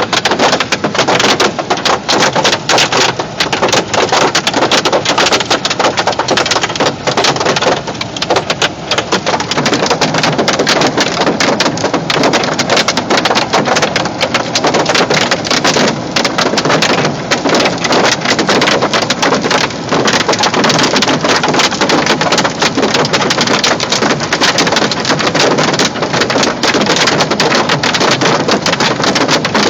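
Large hailstones hitting a car's roof and windshield, heard from inside the cabin: a loud, dense, unbroken clatter of hits.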